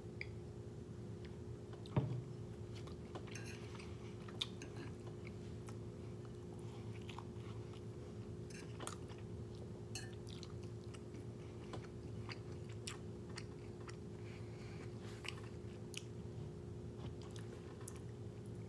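Close-up chewing and biting of a mouthful of rice, egg and kimchi, with scattered small clicks over a steady low hum. A single sharp knock about two seconds in is the loudest sound.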